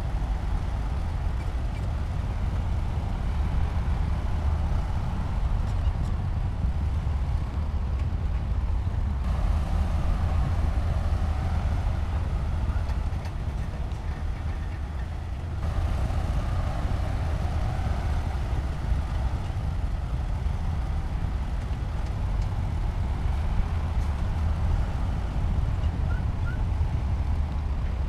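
Heavy diesel earthmoving machinery running steadily, a deep low engine rumble. The sound shifts abruptly about a third of the way in and again near the middle.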